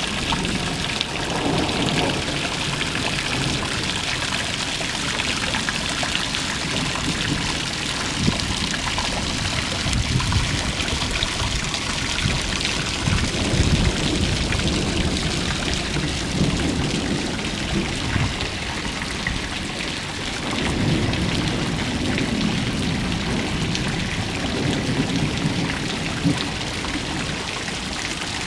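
Rain falling steadily, a continuous hiss of drops, with low rumbling that swells and fades several times.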